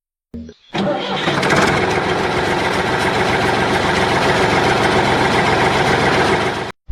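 An engine starting: a short burst, then about six seconds of steady, loud running that cuts off abruptly.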